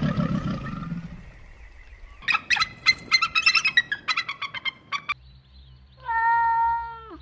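A domestic cat gives one long meow, held at one pitch and dropping at the end; it is the loudest sound here. Before it comes a low growl fading out in the first second, then about three seconds of rapid, repeated bird calls.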